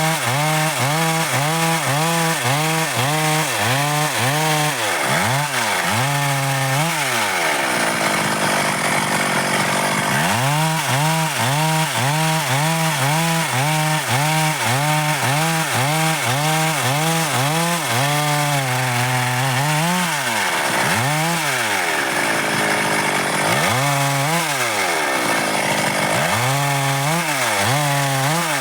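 Stihl MS 382 two-stroke chainsaw cutting dry timber. Its engine pitch swings up and down about twice a second under load. It drops back for a few seconds early on, then rises again in single revs near the end.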